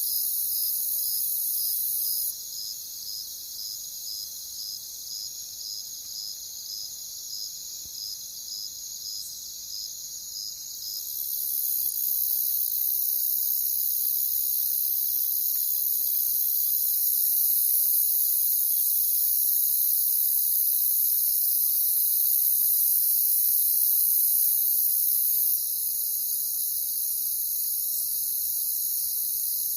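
Crickets chirping in a chorus, high-pitched and continuous. For the first third a regular chirp of about two a second stands out; about eleven seconds in, a steady, louder high trill takes over.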